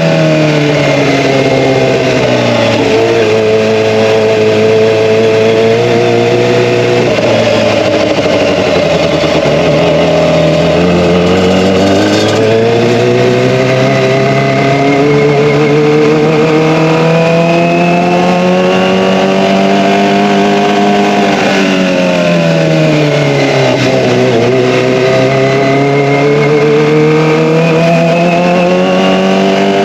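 Kawasaki ZX-25R's inline-four engine through an Akrapovic Evolution exhaust, running loud, its pitch falling and rising as the throttle is eased off and opened. It climbs slowly for several seconds, drops quickly a little after the middle, then climbs again near the end.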